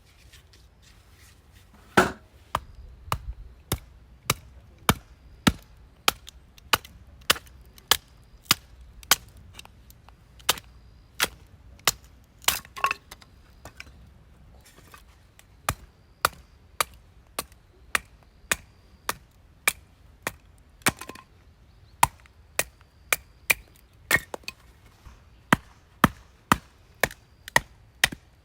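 Repeated sharp knocks, about two a second, with a few short pauses in between.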